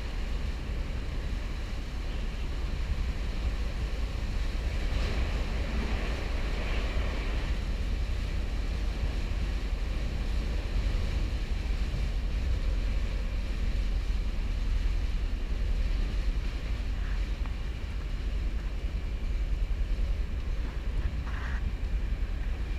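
Chicago "L" elevated train running, a steady low rumble with rolling wheel and rail noise, swelling briefly to a brighter hiss a few seconds in.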